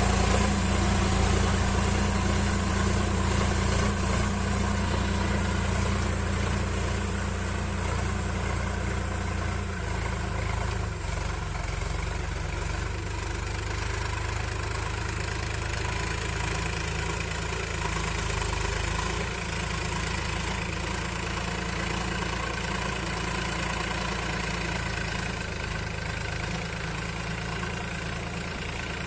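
Sonalika tractor's diesel engine running steadily, slowly getting quieter.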